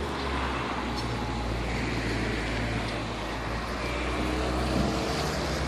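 Steady rushing background noise, like distant traffic, with a low hum and faint music near the end.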